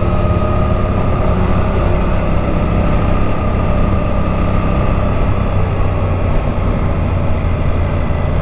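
Motorcycle engine running with wind noise, its pitch falling gradually over the first few seconds as the bike slows.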